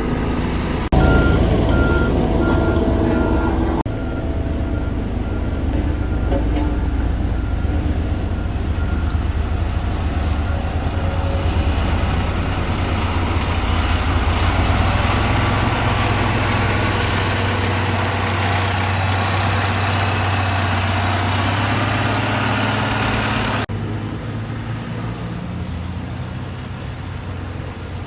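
Heavy diesel engine of a motor grader working, with a reversing alarm beeping about twice a second for several seconds near the start.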